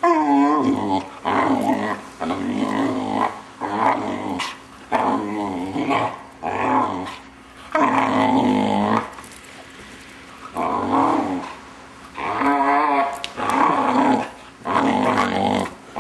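Six-month-old Vizsla puppy making its weird, drawn-out vocal noises: about a dozen in a row, each around a second long with a wavering pitch, separated by short breaks and a pause of about two seconds midway.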